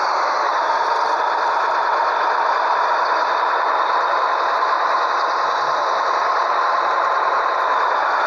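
Scania 112H truck running steadily: an even, unbroken noise with a faint whine whose pitch drifts slightly.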